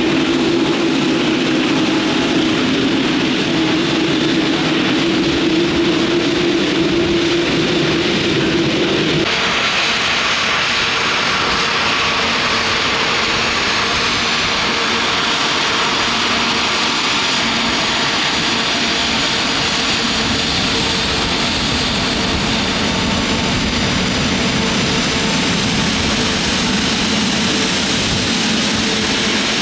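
Jet airliner engines running loud and steady at close range. About nine seconds in the sound changes abruptly: a strong low hum gives way to a brighter, hissing engine whine.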